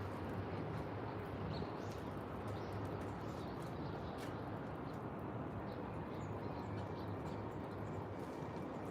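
Steady outdoor park ambience: a low, even background rumble with a few faint, short bird chirps.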